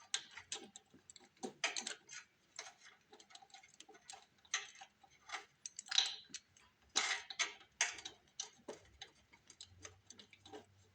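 Irregular light clicks and taps of small metal hardware and hand tools: bolts and lock washers being fitted by hand into a snowblower's carburetor mounting.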